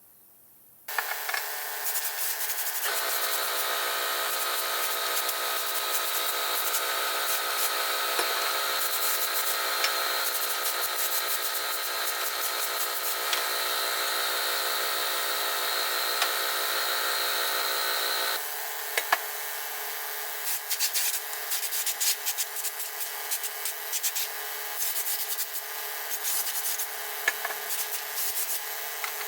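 A small electric power tool running steadily with an abrasive sanding or rubbing sound, starting about a second in. About 18 seconds in its tone drops and it becomes quieter and rougher, with scattered clicks.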